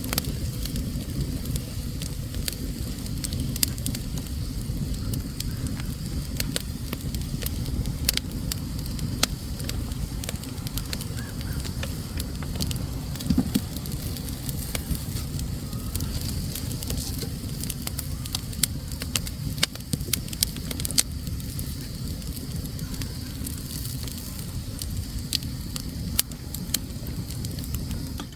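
Wood fire burning in a fireplace: a steady low rushing of the flames with frequent sharp crackles and pops of the burning logs.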